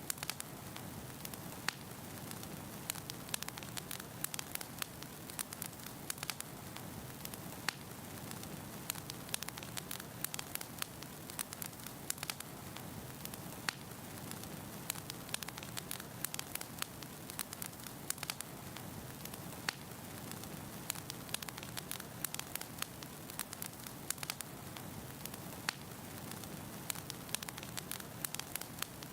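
Firewood burning in a fireplace, crackling: a steady low rushing hiss broken by frequent sharp, irregular pops and snaps.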